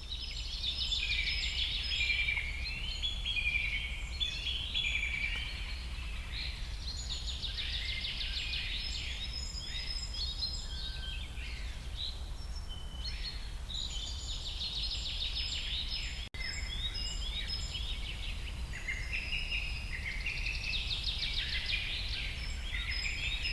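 Birds singing and chirping in a continuous chorus of overlapping trills and short calls, over a low steady rumble.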